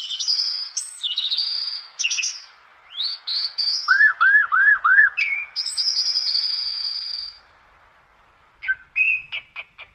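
Birdsong: a series of high chirps and whistled phrases, with four quick arched notes about four seconds in, a long held whistle after them, and a few sharp chirps near the end.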